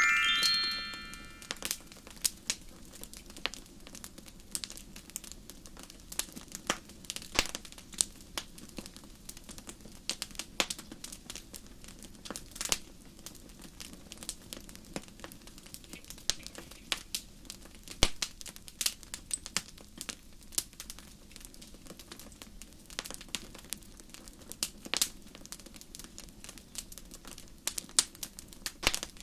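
Wood fire crackling, with irregular sharp snaps and pops over a low steady rumble. A ringing pitched chime fades out over the first second and a half.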